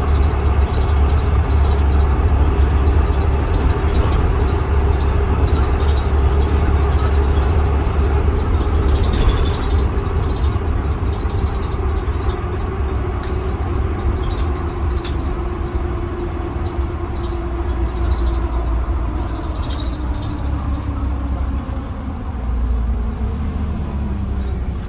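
Blue Bird Vision school bus driving, heard from inside the cabin: a steady low engine drone with a whine that slowly falls in pitch over the second half as the bus slows, and a few light rattles.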